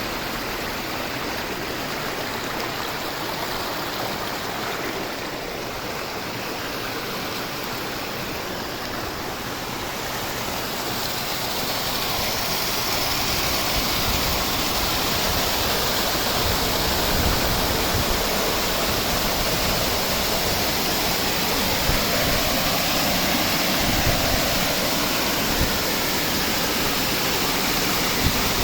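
River water rushing steadily over rocks, growing louder partway through.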